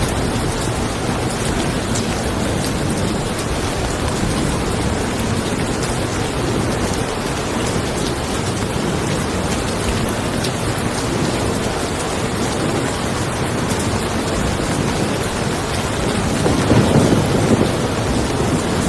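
Steady rain falling on a car, with a low roll of thunder swelling briefly near the end.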